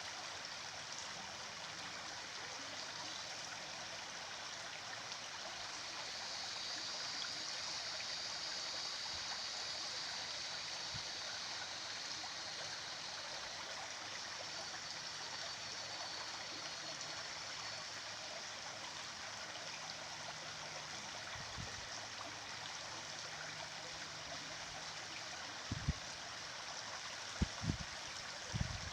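A stream of water flowing steadily, with a few short low thumps near the end.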